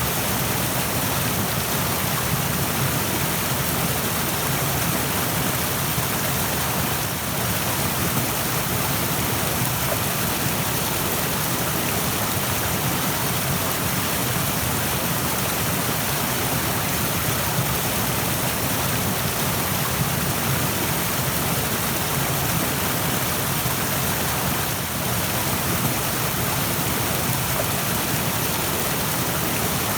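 Rushing stream: a steady, dense rush of fast-flowing water, loud and unbroken.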